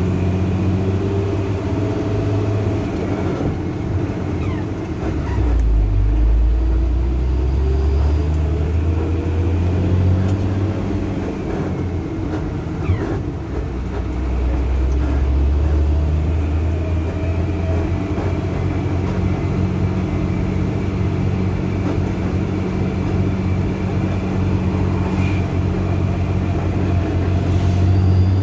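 Truck engine running under load on a steep climb, a steady low hum whose pitch drops and then rises again several times, with a fainter whine above it that slowly rises in pitch.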